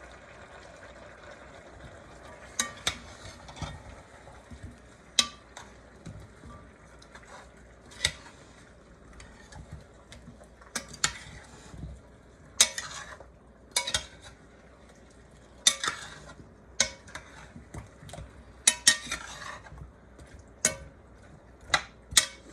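A spoon stirring chicken and vegetables in a small soup pot, knocking and scraping against the pot at irregular intervals over a faint steady sizzle as the vegetables fry before the water goes in.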